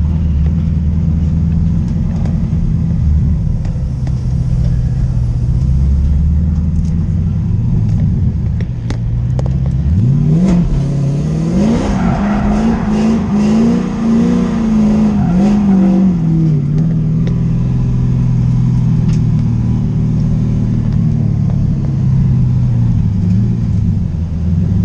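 LS1 V8 engine in a swapped BMW E36 M3, running at a steady idle, then revved up and down several times from about ten seconds in, before settling back to a steadier lower note.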